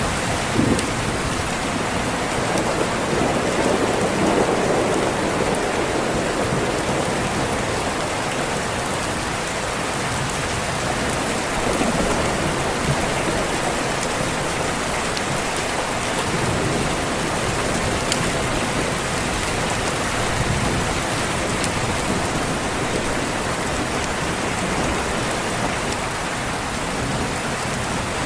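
Steady heavy rain on a window, with rolling thunder that swells a few seconds in and again near the middle.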